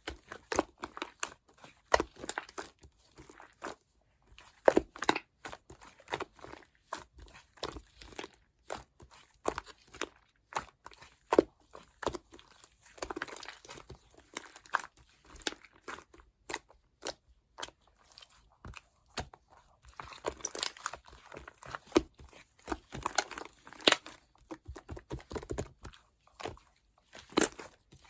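Two-layer slime being pressed and worked by hand: irregular crackling pops and squishes, with a few short pauses.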